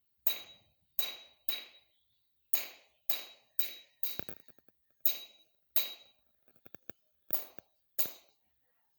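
Repeated sharp metallic strikes, about eleven blows at uneven spacing, each with a brief ringing tone, like a hammer or blade hitting metal.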